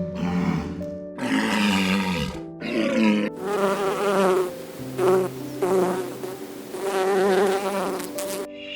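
Insect-like buzzing in about four wavering bursts over steady background music, after a few shorter animal calls in the first three seconds.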